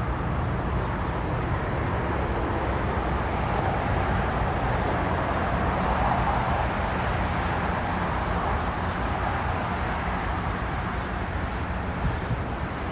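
Jet airliner passing, a broad rushing roar that swells about halfway through and then eases off, over a steady low rumble.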